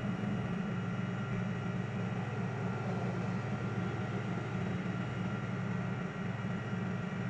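Tow truck's engine running steadily: a low, even hum with a few fainter steady higher tones above it.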